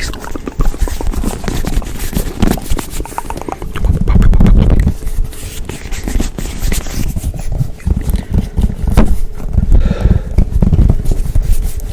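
Fast, aggressive ASMR hand sounds close on the microphone: rapid tapping and scratching strokes in quick succession, with louder low rumbling stretches about four seconds in and again from about nine seconds.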